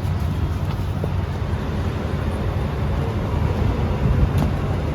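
Steady low rumble and noise of a State Railway of Thailand train heard from inside a non-air-conditioned carriage.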